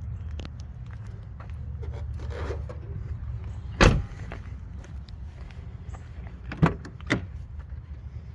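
Handling noises at a 2001 Toyota 4Runner: a steady low rumble, with one loud sharp clunk about four seconds in and two lighter clunks near the end, like a door or hatch being worked.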